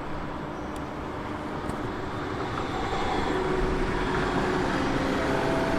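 Train running past, a steady rumble and hiss with a few faint steady tones, growing a little louder about halfway through.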